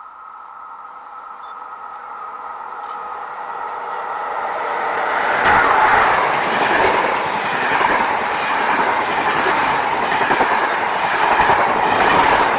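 Train approaching and passing through a station. A faint ringing tone from the rails builds steadily for about five seconds, then a loud rumble of wheels on track with repeated clatter as the cars go by.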